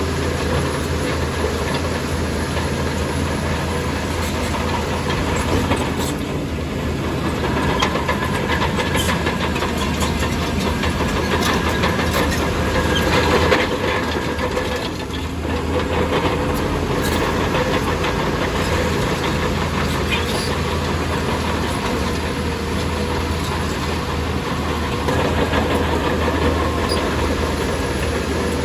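Shantui DH17C2 crawler bulldozer's diesel engine running steadily under work, with scattered metallic clanks from its tracks.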